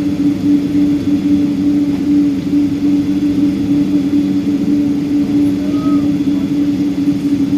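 Steady drone inside a Boeing 777-200's cabin: jet engines and cabin air running at an even pitch, with a strong low hum and no rise in pitch.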